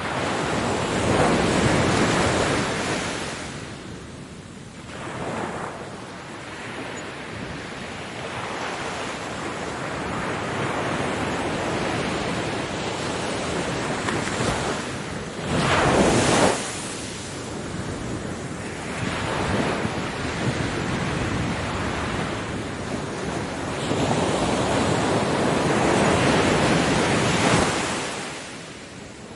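Ocean waves breaking on a beach, the surf rising and falling in surges. One wave breaks more sharply and loudly about halfway through, and a long swell fades away near the end.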